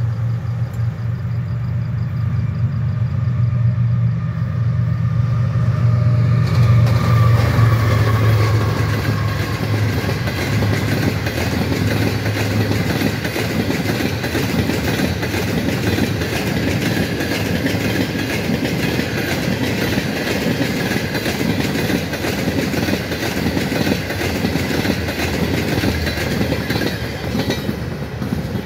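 Express passenger train passing at speed. The diesel locomotive's engine hums steadily as it approaches, and about six seconds in a falling-pitch sound marks it going by. The coaches follow with a continuous clatter of wheels over the rail joints.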